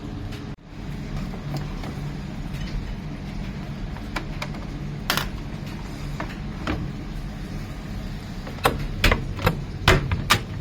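Miele PW 6080 commercial washing machine running, a steady low hum with scattered sharp clicks and knocks, a few louder knocks close together near the end.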